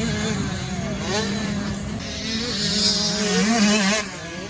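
Dirt bike engines riding on a motocross track, revving up and down. The engine noise swells and then drops off sharply about four seconds in.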